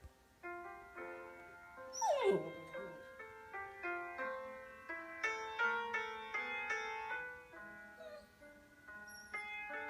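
A dog whines once, a single falling whimper about two seconds in, over slow calming music of single, evenly placed notes.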